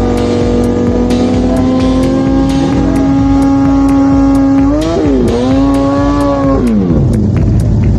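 Drag-racing motorcycle engines running at high revs, holding a steady high pitch with a second engine rising in. About five seconds in the pitch dips and climbs again, and near the end it falls away.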